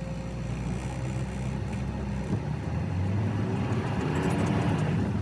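Semi-truck diesel engine running with a steady low drone; about halfway through its pitch steps up and it grows louder, as when the engine revs up under load.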